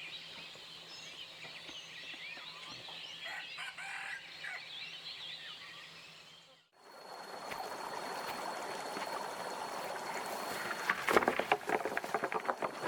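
Birds chirping busily over a faint low hum. After a sudden break about two-thirds of the way in, an even hiss takes over, with a quick run of clicks or knocks near the end.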